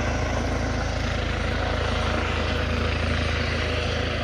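Airbus H135-based RAF Juno HT.1 helicopter on its landing approach: a steady rapid beat of the main rotor blades over the twin turbines' running noise, with a thin high whine.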